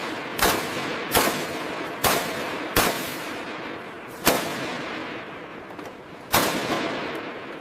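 A series of six sharp bangs at uneven intervals, each trailing off in a long echoing decay.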